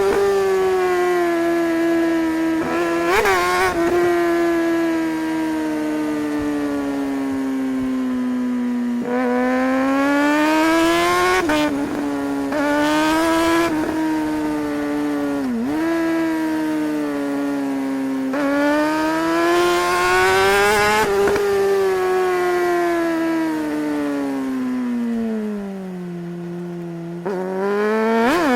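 Suzuki GSR600's inline-four engine under way on a motorcycle, its note climbing under acceleration and sinking off the throttle. A few brief sharp breaks in the pitch mark gear changes.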